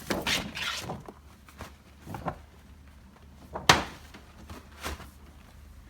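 Shoebox packaging being handled and unwrapped: rustling swishes at first, then short knocks of cardboard, the loudest a little past halfway and a lighter one about a second later.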